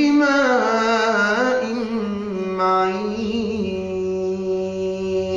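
A man's voice chanting Quran recitation in tajweed style, melodically drawing out the closing words of the verse, then holding one long steady note.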